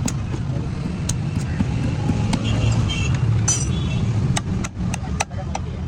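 A steady low vehicle rumble, with scattered sharp clicks and taps over it.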